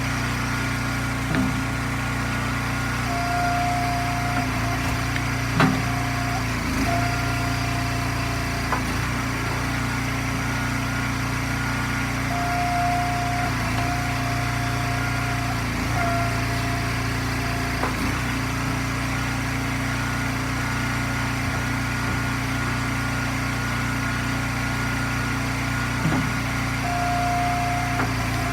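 Gas engine of an Eastonmade hydraulic log splitter running steadily, with a higher steady whine coming and going for a few seconds at a time as the ram works, and a few sharp knocks, the loudest about five and a half seconds in, from the ash rounds splitting and the pieces being handled.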